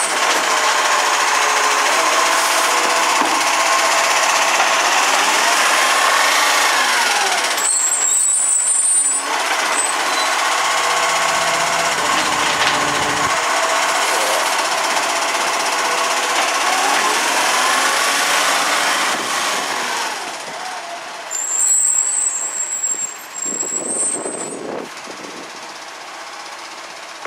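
Iveco Acco side-loader garbage truck with a MacDonald Johnston Gen V body running loudly, its engine rising and falling in pitch twice. Short high-pitched squeals of air brakes come about eight seconds in and again near the end, and the sound fades over the last few seconds.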